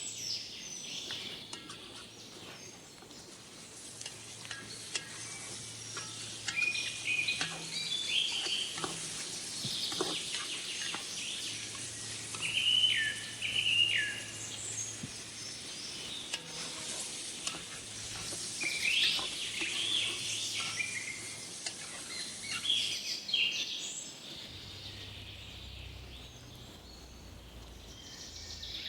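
Birds chirping and calling again and again over the steady sizzling hiss of food frying in a pot; the sizzle stops abruptly near the end.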